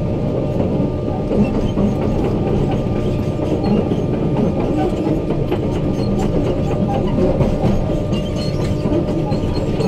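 Excavator running with a steady heavy rumble and continuous clatter.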